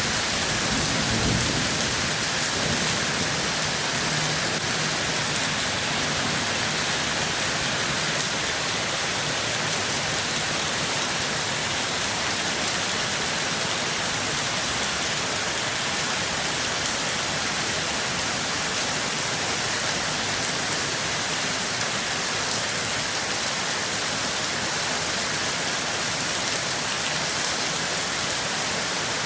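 Steady heavy rain pouring down in an even hiss, with a low rumble in the first couple of seconds.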